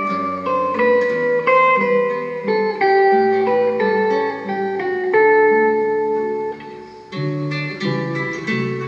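Guitar playing an instrumental introduction with a melody of plucked notes. It is briefly quieter about seven seconds in.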